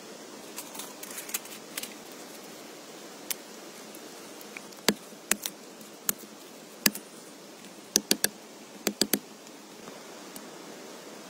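Steady hiss of rain, with a scattered series of sharp clicks or taps, about a dozen, most of them between about five and nine seconds in.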